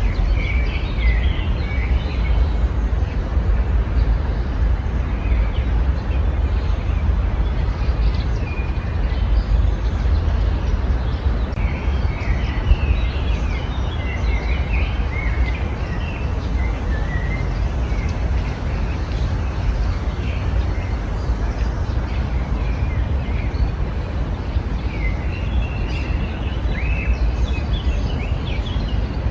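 Small birds chirping in short bursts near the start, through the middle and again near the end, over a steady low rumble.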